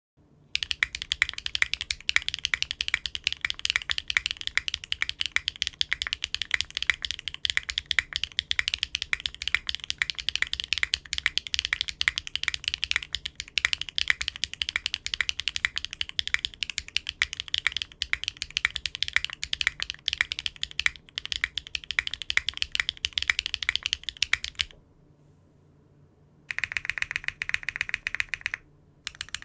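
Mechanical keyboard fitted with Cherry-profile keycaps being typed on in a fast, continuous stream of key strokes. The typing stops for about two seconds near the end, then starts again briefly.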